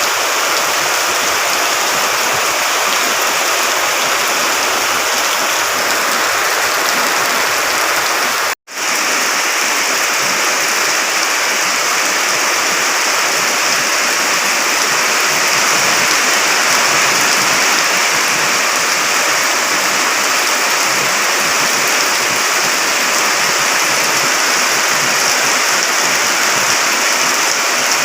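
Steady, loud rushing of water, with a split-second cut to silence about eight and a half seconds in.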